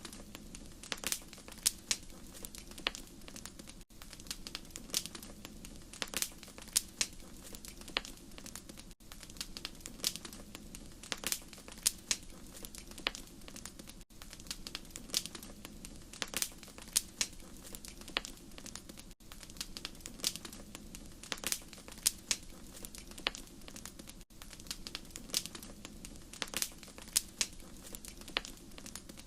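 Wood fire in a fireplace crackling, with irregular sharp pops over a steady low rumble of the flames. A brief dropout comes about every five seconds.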